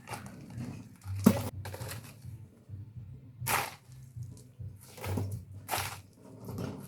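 A run of irregular short rustling, crunching noises, about eight in all, with one sharp crack about a second in, over a low steady hum.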